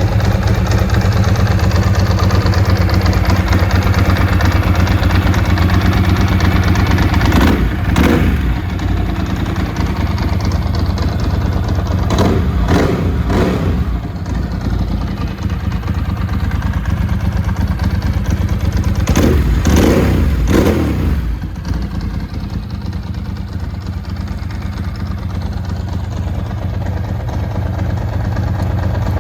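A 1999 Ducati 996S's 90-degree V-twin engine idling steadily, warming up after a cold start, and revved in short throttle blips that rise and fall in pitch: a couple about a quarter of the way in, three quick ones near the middle, and two or three more about two-thirds through, before it settles back to idle.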